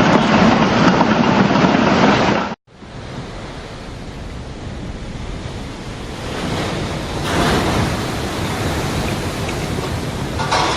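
Loud storm surf and wind noise on the microphone, cut off suddenly about two and a half seconds in. A quieter recording of waves and wind follows, with louder rushes of surf about halfway through and again near the end.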